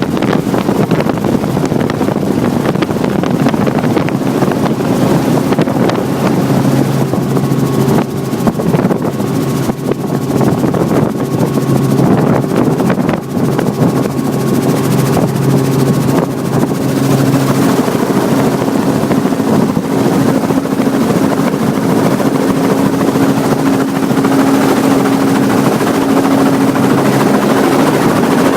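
Helicopter engine and rotor running steadily, heard from inside the cabin during flight: a loud, even drone with a steady low hum whose pitch steps up slightly about two thirds of the way through.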